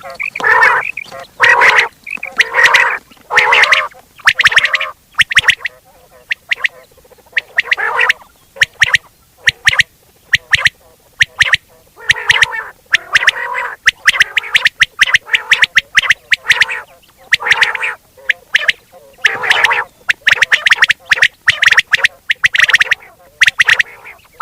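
Quail calling over and over, a fast, irregular series of short, harsh, clicking notes with brief pauses between bursts.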